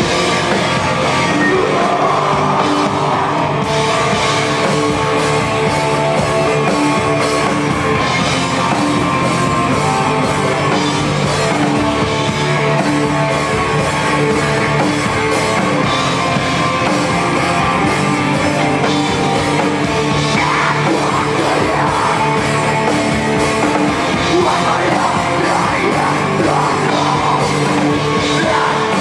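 Live rock band playing loud, with distorted electric guitars, drums and a singer yelling over them.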